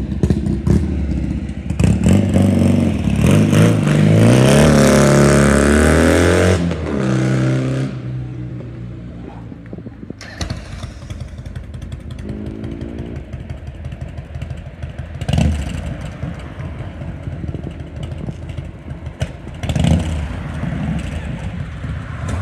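Classic BSA motorcycle engine revved up hard and let fall back a few seconds in, then running at a steady, pulsing idle with a few sharp knocks.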